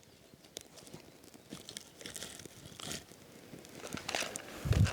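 Rustling and crinkling with scattered small cracks and snaps as campfire materials are handled while a fire is being laid, getting louder toward the end, with a dull thump near the end.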